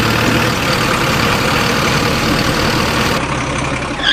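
Heavy vehicle engine running steadily, like a truck's diesel.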